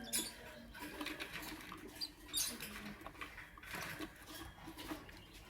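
Lovebirds chirping in short, high squeaks, scattered with soft clicks.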